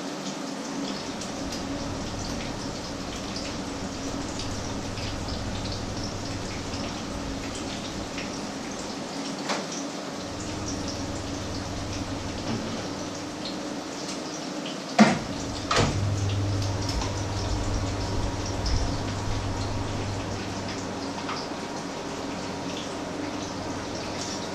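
Patties shallow-frying in oil in two frying pans, a steady crackling sizzle. A low hum comes and goes, and two sharp knocks sound about fifteen seconds in.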